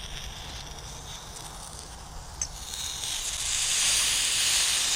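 Hiss and sizzle of water steaming off the burning-hot engine of a motorized bike, being cooled down quickly right after burnouts; the hiss swells about three seconds in and keeps going.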